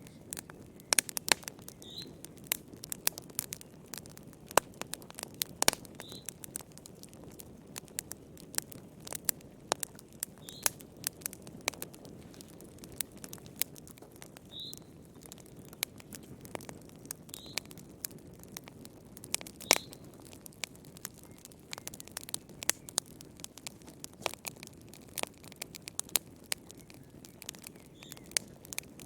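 Wood fire burning in a fireplace: irregular sharp crackles and pops from the burning logs over a low, steady rush of the flames.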